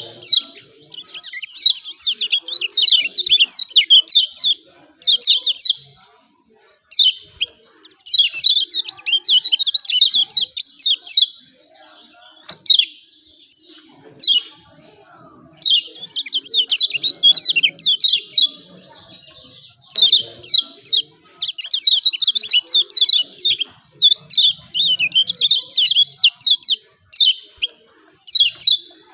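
Kecial kuning, a small white-eye, giving its excited 'ciak ciak' calls. Fast, high, sharp chirps come in rapid runs of a second to a few seconds, with short pauses between them.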